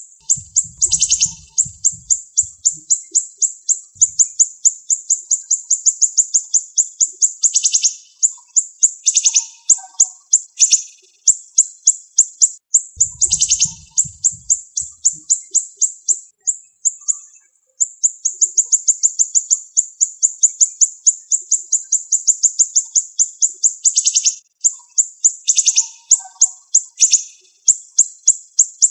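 Siri-siri songbird singing long, fast trills of very high, sharp repeated notes, broken by short pauses, with a brief low rumble about a second in and again near the middle.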